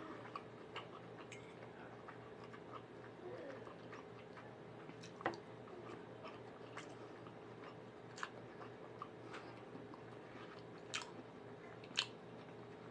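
A person chewing a mouthful of food, with quiet mouth sounds and scattered sharp clicks of a metal fork, the loudest about five seconds in and again near the end.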